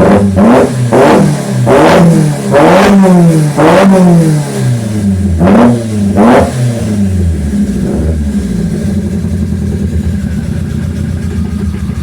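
Car engine blipped repeatedly through a side-exit exhaust, the pitch rising and falling with each quick rev, then settling to a steady idle about seven seconds in.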